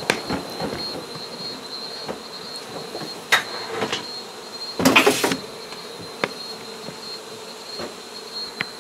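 Honey bees buzzing steadily, with a few sharp knocks and rustles, the loudest about five seconds in.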